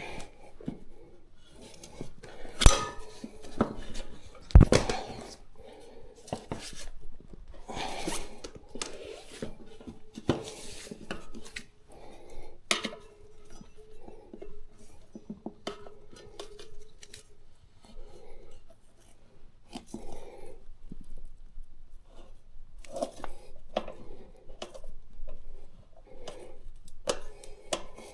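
Metal tyre levers clinking, knocking and scraping against the wheel rim as a motorcycle tyre is worked off by hand, with two sharp knocks a few seconds in.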